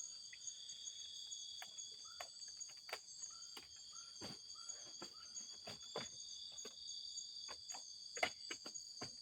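Night-time chorus of crickets and other forest insects, a steady high-pitched drone in several layers. Scattered light clicks and knocks run through it, with a few short faint chirps in the middle.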